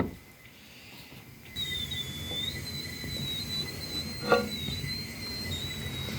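A high, thin whistling tone that wavers slightly in pitch starts about a second and a half in, with a single short knock about four seconds in.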